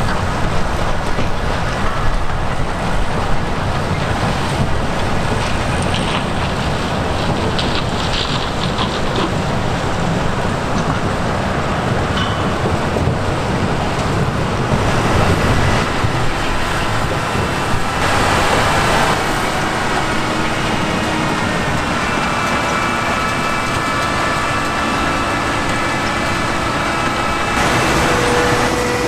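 Heavy diesel farm machinery running steadily under load, a dense engine and machine noise; past the middle, several steady high whining tones join in.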